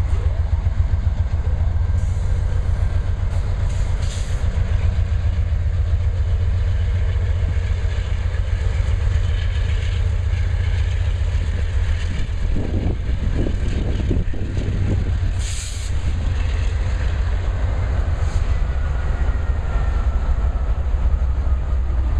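Freight train rolling past: a steady, heavy low rumble of locomotives and cars on the rails, with a few brief high-pitched squeals and a short patch of louder clatter about halfway through.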